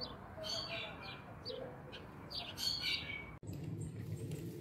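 Birds chirping in short, repeated high calls over a low outdoor background; the chirps stop abruptly about three and a half seconds in.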